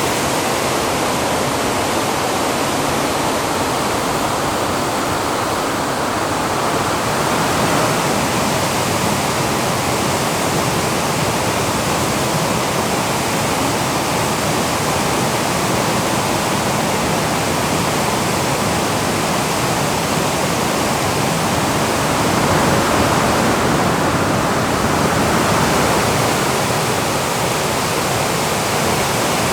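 Rushing water: a loud, steady, even rush that swells slightly a few times.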